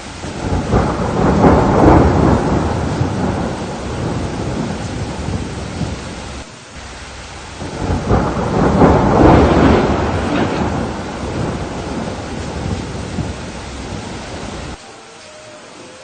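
Thunderstorm: steady rain with two long rolls of thunder, one starting about half a second in and the other about seven and a half seconds in, each fading away over several seconds. The sound drops abruptly near the end.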